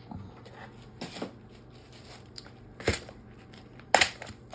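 Fabric and pins being handled at a work table: a few short rustles and taps, the loudest near the end.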